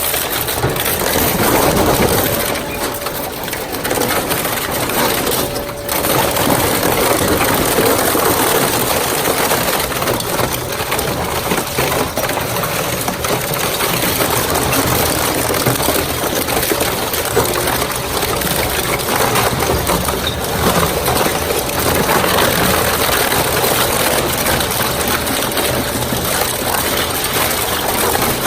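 Four-shaft shredder breaking up washing machines: continuous crunching and cracking of metal and plastic over the machine's steady hum.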